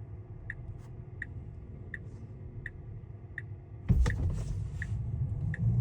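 Tesla Cybertruck turn-signal indicator ticking steadily, about one tick every 0.7 s, over a low cabin rumble. About four seconds in, a sudden loud rush of noise, after which the low rumble in the cabin is louder.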